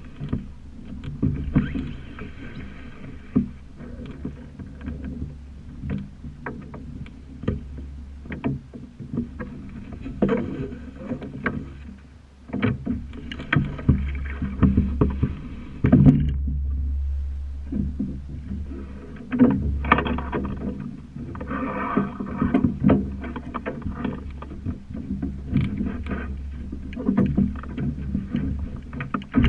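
Comet-class sailing dinghy under way: water splashing and hissing along the hull in waves, with frequent knocks and clatter from the boat over a steady low rumble.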